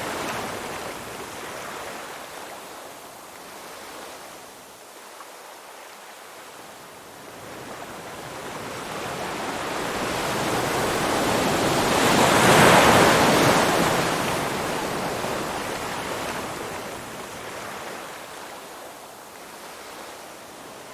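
Sea waves washing in and out: the surf fades, then one large wave swells up to a loud peak a little past halfway and slowly drains back.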